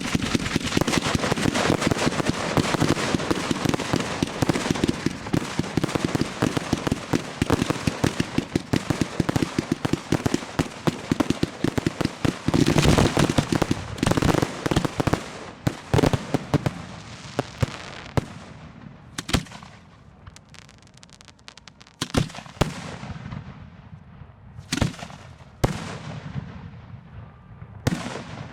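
Fireworks display heard close to the firing site: a dense, rapid barrage of crackling and bangs for the first half or so, thinning out to separate booms with trailing crackle toward the end.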